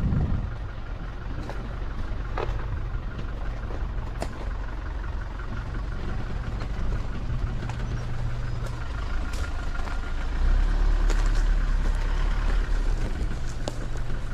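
Vehicle engine running while driving, with a steady low hum and scattered knocks and rattles. The engine gets louder about ten seconds in.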